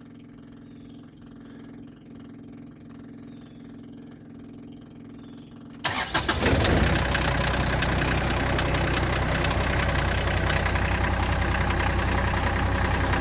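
A faint steady hum for about six seconds. Then the Kioti CS 2510 compact tractor's three-cylinder diesel cranks, catches and settles into a steady idle.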